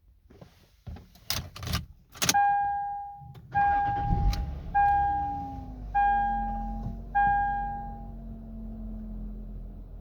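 Several clicks and clunks, then a dashboard warning chime dings five times, about once a second, while the 2002 Lexus IS300's straight-six is cranked and catches about four seconds in. It then settles into a steady low idle.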